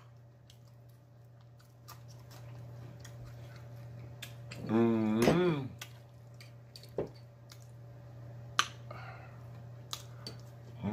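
A man chewing and eating with his fingers close to the microphone: wet mouth clicks and lip smacks scattered through, and a drawn-out hummed "mmm" of about a second near the middle. A steady low electrical hum runs underneath.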